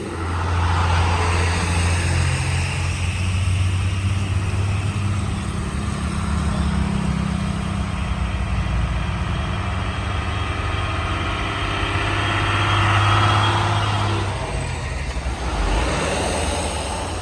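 Heavy truck engine running on a climb, a steady low drone with road traffic around it; the drone drops away about fourteen seconds in.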